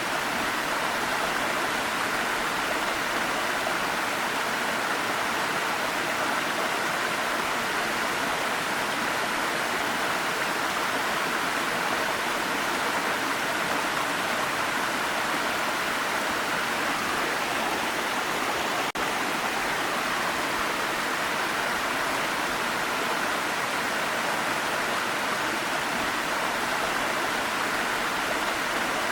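Waterfall: a steady, even rush of falling water with no pauses, and a faint click about two-thirds of the way through.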